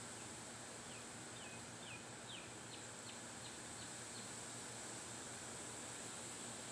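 Faint outdoor background hiss with a run of about ten short, high chirps from a small animal, about three a second, beginning about a second in and stopping about halfway through.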